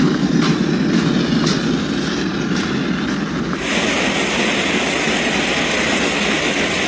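Heavy hail falling and pelting hard surfaces, a dense, steady roar of impacts. About three and a half seconds in the sound changes abruptly to a brighter hiss.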